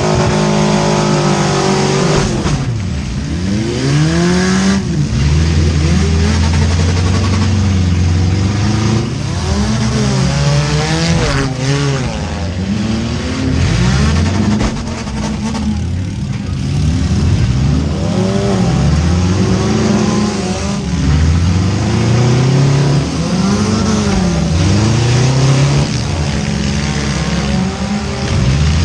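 A 2001 Subaru Outback's four-cylinder engine in a demolition derby, revved hard and let off over and over as the car accelerates and backs into hits, with other cars' engines and the bangs of car bodies colliding.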